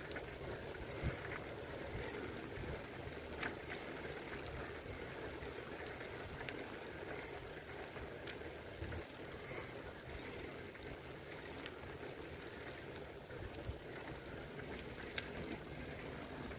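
Faint steady rushing noise of a bicycle ride, with a few scattered light clicks and ticks.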